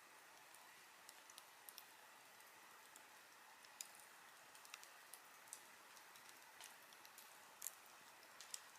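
Wood campfire crackling: scattered small pops and snaps at irregular intervals over a faint steady hiss, with a louder snap near the end.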